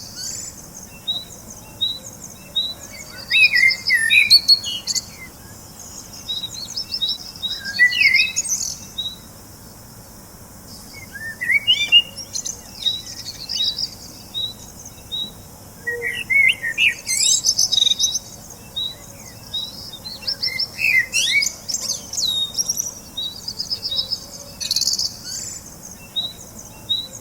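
Several birds chirping and singing: a running series of short high chirps, broken every few seconds by fast trills and warbling phrases.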